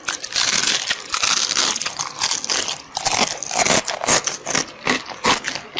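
Close-miked eating sounds: a dense run of crackly noise for about three seconds, then separate sharp crunches about twice a second.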